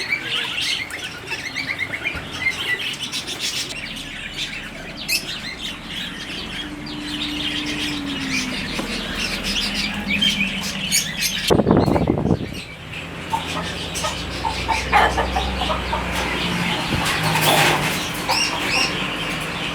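Many caged birds chirping and twittering together, with wings fluttering, over a steady low hum. A brief loud rushing noise cuts in about twelve seconds in.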